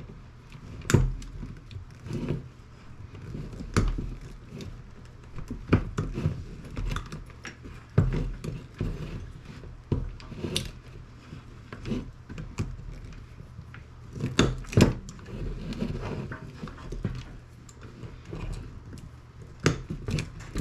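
Scattered clicks, knocks and light rattles as metal parts of a desktop computer power supply are handled and pulled at, every second or two, over a low steady hum. A cluster of louder knocks comes about two-thirds of the way through.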